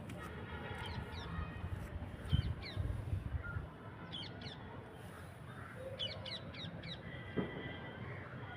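Birds calling in a garden: quick high chirps in short runs, several times, with longer held calls at the start and end. Under them is a low rumble, and there is a single knock about seven seconds in.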